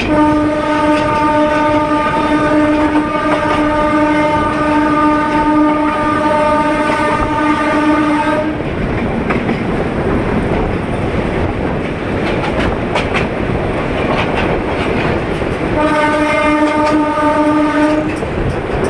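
Bangladesh Railway locomotive horn blowing one long steady blast of about eight seconds, then a shorter second blast near the end, over the continuous rumble and clatter of a moving train.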